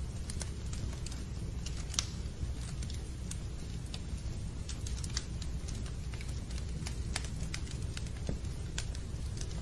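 Fireplace fire crackling: irregular sharp pops and snaps over a steady low rumble, with the loudest snap about two seconds in.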